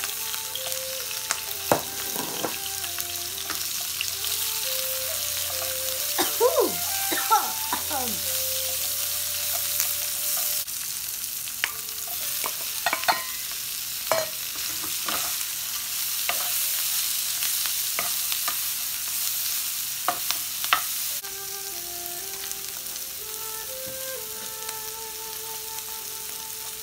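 Sliced onion and other vegetables stir-frying in hot oil in a nonstick skillet: a steady sizzle, with a wooden spatula scraping and knocking against the pan now and then. The sizzle eases a little near the end.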